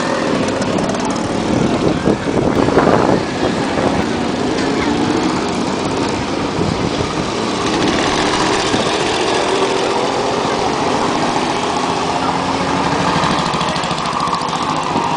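Engines of vintage motorcycles running at low speed as they ride past, their note rising and falling, with a brief louder swell about three seconds in.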